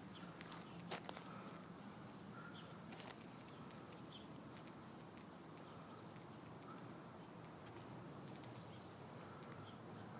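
Faint, scattered short bird chirps over steady low background noise, with a few light clicks about a second in.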